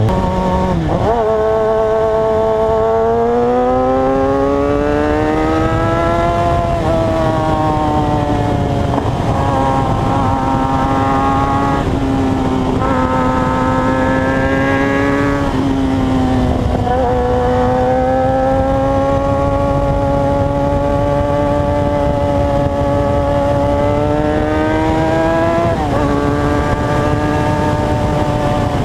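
Motorcycle engine under way, its note climbing and dropping back at several gear changes, then holding steady while cruising for a long stretch.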